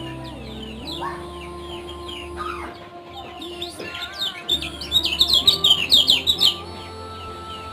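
Kecial kuning, a yellow white-eye, singing a fast run of high, quick, falling 'ciak' chirps. The chirps grow loudest and thickest from about four and a half to six and a half seconds in.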